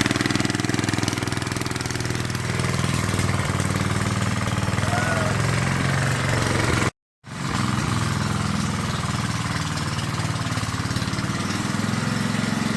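Tractor engine running steadily, cut off abruptly for a fraction of a second about seven seconds in, then running on.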